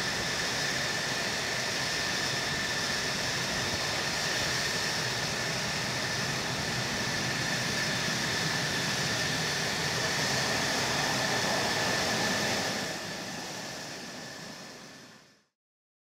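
F-16 fighter jet engine running steadily, a rushing jet noise with a high whine. It fades about thirteen seconds in and cuts off near the end.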